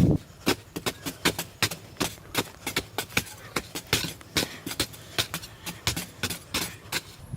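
A quick irregular series of sharp clicks or taps, about five or six a second.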